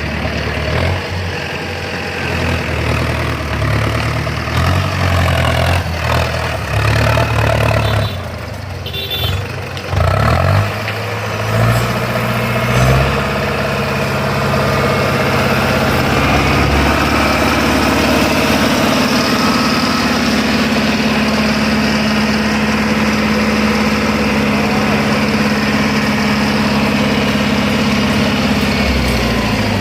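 Tractor engine running, its pitch changing through the first dozen seconds, then settling into steady running with a constant hum.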